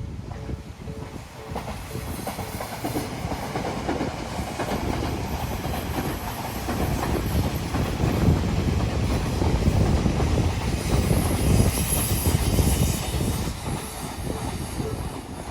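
Odakyu Line train passing on the tracks, its wheels clattering over the rail joints; it grows louder to a peak about two-thirds of the way through, then fades.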